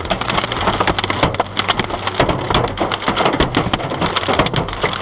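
Hail pelting a car: a dense, irregular clatter of hard impacts on the body and windshield, many strikes a second, over a low steady hum.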